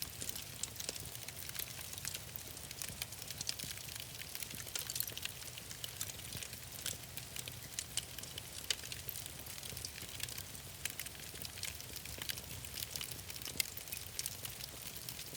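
Wood fire crackling steadily, with many small irregular pops and snaps over a low rumble.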